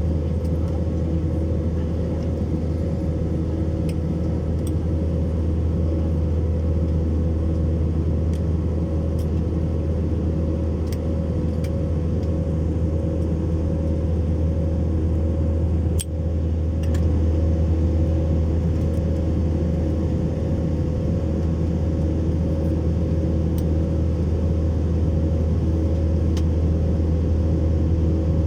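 Steady low engine drone with a constant hum, broken once by a brief click about halfway through.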